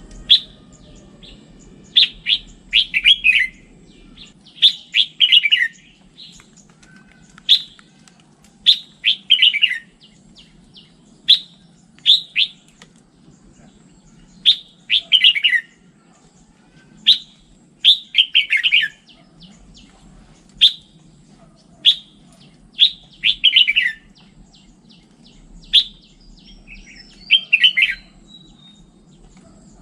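Red-whiskered bulbul singing: short, bright phrases of chirps and quick falling notes, repeated every second or two, over a faint low hum.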